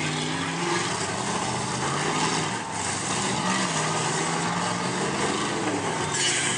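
Several truck engines running hard during a derby race, their pitch rising and falling as they rev, over a dense wash of engine and track noise.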